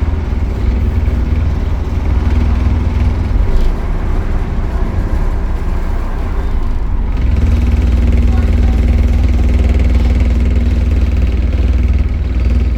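Optare Solo bus running under way, heard from on board: a steady engine drone with a faint high whine. The drone eases off partway through, then picks up again and grows a little louder about seven seconds in.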